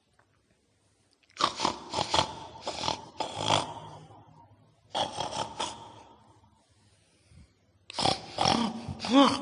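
Pig-like grunting and snorting in three rough bursts: one about a second and a half in lasting over two seconds, a short one around five seconds, and a last one near the end that turns into a pitched growl.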